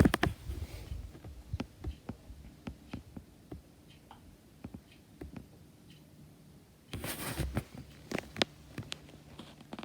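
A B&Q electric fan is switched off with a click, then coasts down, its spinning parts ticking about two or three times a second at first, the ticks spreading out as it slows. A short scraping rustle comes about seven seconds in.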